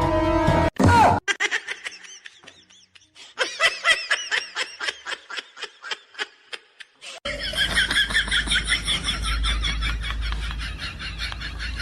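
Laughter in quick, repeated short bursts. About seven seconds in it cuts to a different, higher-pitched laugh over a low rumble.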